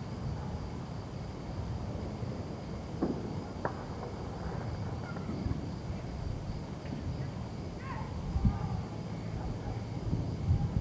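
Distant fireworks going off now and then, a few sharp pops and low booms over a steady low rumble, with a faint steady high tone underneath.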